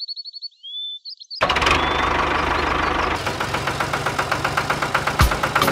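A few thin, high chirps, then about a second and a half in an engine starts abruptly and runs with a fast, steady knocking beat, the sound of a small tractor engine.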